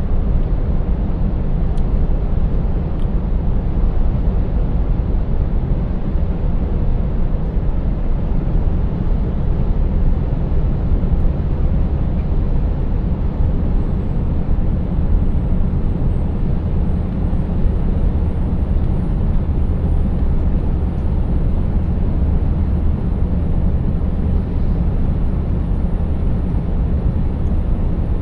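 Scania 590S truck's V8 diesel engine running steadily on the road, with constant drivetrain, tyre and road noise.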